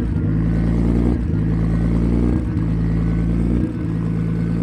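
Nissan RB25DET turbocharged straight-six idling on a Haltech ECU's rotational idle ('ghost cam'), injection-cut method with a 1200 rpm end RPM, heard at the exhaust. The note breaks and builds back up about once every 1.2 seconds as cylinders are cut at the end RPM and the revs fall back and climb again.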